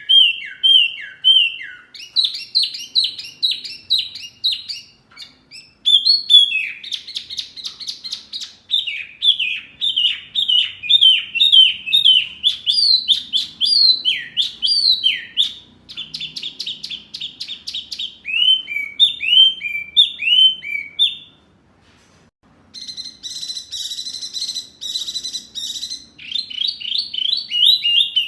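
A songbird singing a fast, varied sequence: rapidly repeated downslurred whistles and buzzy trills, changing phrase every few seconds, with a brief pause about three-quarters of the way through. This is a masteran recording, used to prompt caged songbirds to sing back.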